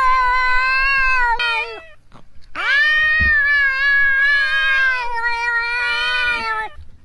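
A cat yowling: two long drawn-out meows, the first about two seconds long and the second about four seconds long.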